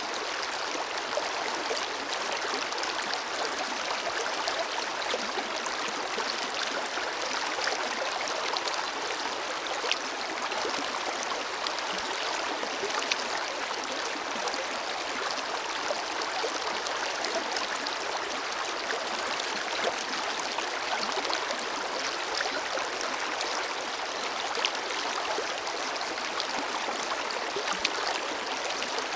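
Forest river flowing steadily: continuous rushing water with small splashes and gurgles throughout.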